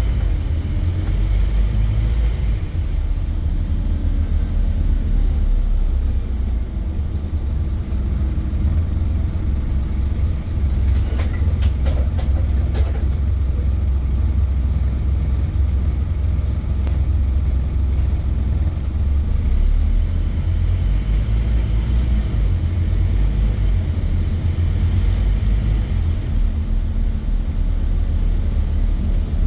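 Scania N230 bus engine running steadily with a heavy low rumble, with a short cluster of sharp clicks or rattles a little before halfway.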